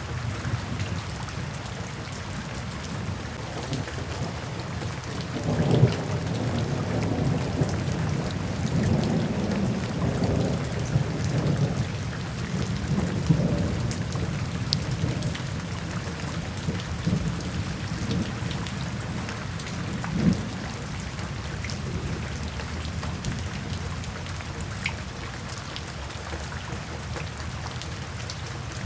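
Steady rain falling, with rolling thunder that rumbles through the first half and a sharp crack of it about six seconds in, another near twenty seconds.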